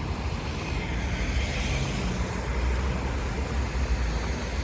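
City street traffic: a steady low rumble of vehicle engines and tyres, with faint brief higher tones partway through.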